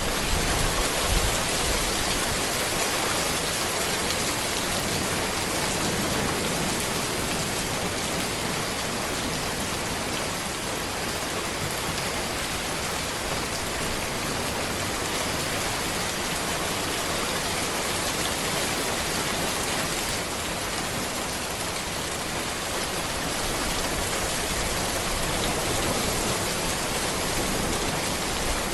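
Steady rain falling on a road and trees, an even, unbroken hiss.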